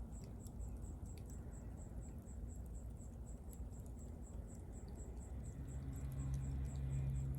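Wood fire burning: a low rumble of flames with a few faint crackles. Over it runs a steady high-pitched ticking about four times a second, and a low steady hum comes in about five seconds in.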